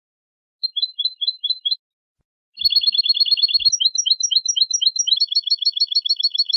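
European goldfinch song: a short run of repeated high notes, then after a brief pause a longer phrase that switches between fast trills and slower repeated notes.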